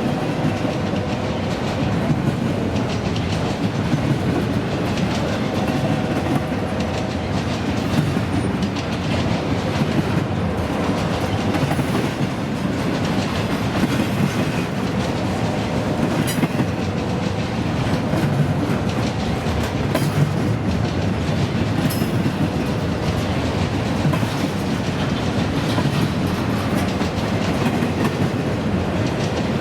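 Freight train cars rolling past, with a steady rumble of wheels on rail and a continuous clatter of clicks and knocks.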